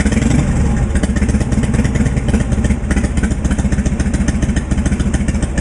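Motorcycle engine running loudly and steadily, its exhaust pulses making a fast, even beat.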